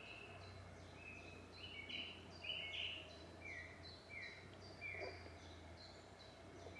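Birds singing faintly: a string of short high chirps, several of them repeated a little less than a second apart, over a faint low steady hum.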